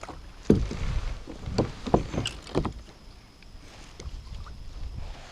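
A few sharp knocks and thumps on a kayak, four in quick succession in the first three seconds and a fainter one about a second later.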